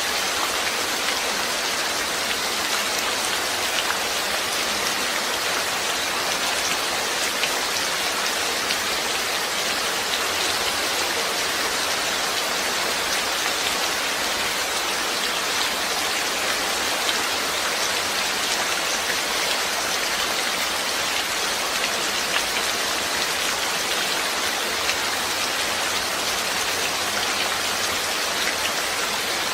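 Steady rain falling and pattering on a surface, with fine individual drop ticks in a continuous hiss.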